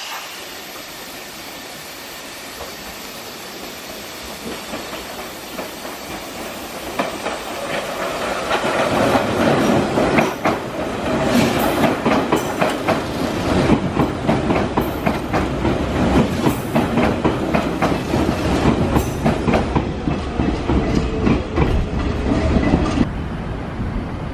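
Hanshin 5000 series commuter train running in over station pointwork. The sound grows louder as it comes close, and its wheels clatter rhythmically over the points and rail joints as the cars pass. Near the end it cuts abruptly to a quieter, more distant train.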